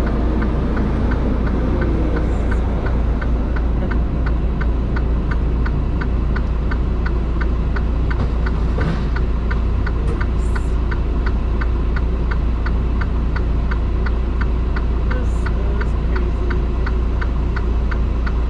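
Semi truck's diesel engine idling, heard from inside the cab, with the flasher relay clicking evenly about three times a second.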